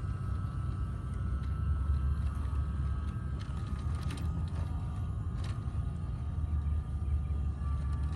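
Small RC crawler's 370 brushed motor and metal gearbox whining steadily at crawling speed, the whine sagging slightly in pitch, over a steady low rumble, with a few sharp clicks.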